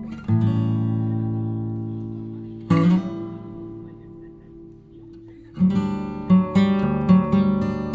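Background music: acoustic guitar strumming chords. A few chords ring out slowly at first, then the strumming turns quicker and rhythmic about two-thirds of the way in.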